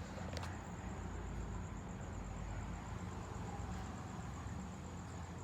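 Steady background hum and hiss with a thin, high, constant whine, and a couple of faint clicks about half a second in.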